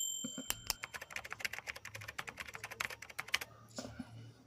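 A quick run of light metallic clicks and taps as a steel clipper blade is handled against the sharpening stone, starting about a second in and stopping a second before the end, just after a brief metallic ring.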